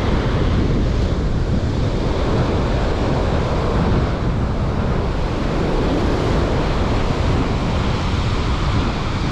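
Strong wind buffeting the microphone over the steady wash of ocean surf breaking on the beach.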